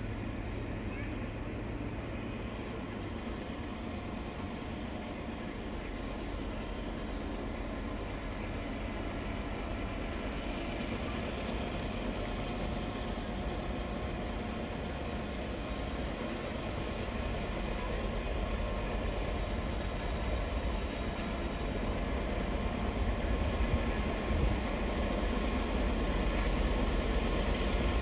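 Diesel-hauled train approaching on the mountain grade: a steady low rumble with a few faint held tones, growing louder through the second half.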